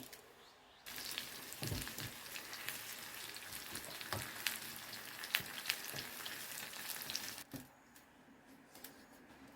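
Food sizzling and crackling as it fries in a hot pan, with sharp pops throughout; it starts abruptly about a second in and cuts off near the end.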